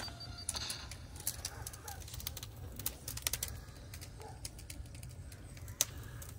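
A bird calling quietly, over a steady low rumble and scattered faint clicks.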